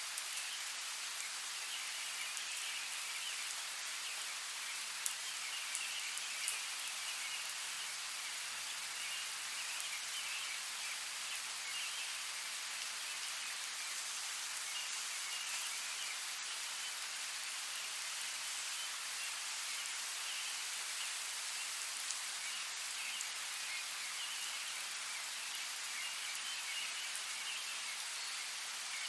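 Steady rain falling, an even hiss with a few sharper drops ticking out, louder about five and six and a half seconds in.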